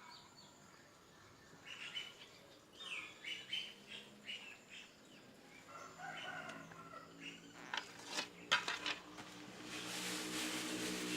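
Small pet bird chirping in short, scattered calls, with a few sharp clicks about eight seconds in and quicker chirping near the end.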